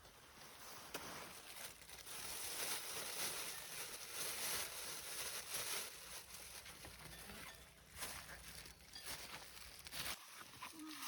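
Leafy vegetable plants rustling and crackling, with irregular sharper snaps, as stems are picked by hand.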